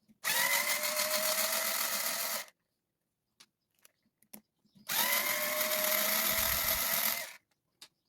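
Cordless power driver backing screws out of an RC truck's chassis: two runs of about two and a half seconds each, the motor's whine rising briefly as it spins up, separated by a pause of a couple of seconds.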